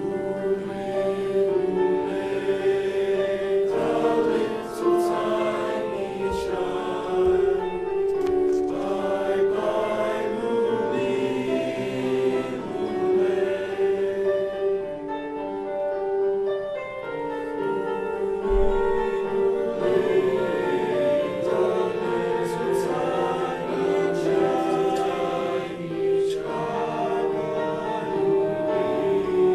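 A choir singing, with sustained chord notes.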